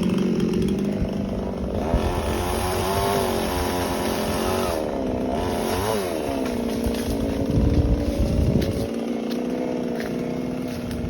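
Small two-stroke chainsaw running at high speed while cutting tree branches, its pitch sagging and recovering as it bites into the wood. A louder low rumble comes about three-quarters of the way through.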